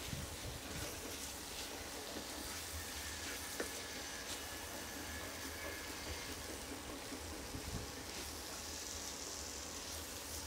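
Chopped onions, bell peppers and tomatoes sizzling in a nonstick frying pan as they are stir-fried with a plastic slotted spatula, with a few clicks of the spatula against the pan, the sharpest about three and a half seconds in.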